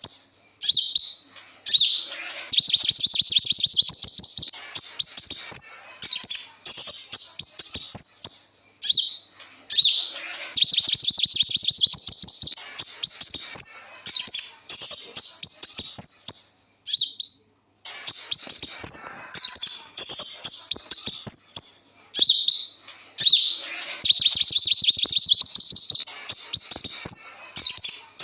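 Kolibri ninja sunbird singing a loud, rapid, high twittering song: quick chattering phrases broken by short gaps, with several buzzy trills held for a couple of seconds each, and one brief pause about two-thirds of the way in.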